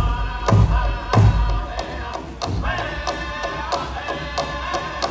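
Powwow drum group performing: a large drum struck in a steady beat, with heavy strokes in the first second or so and lighter ones after, under high-pitched singing.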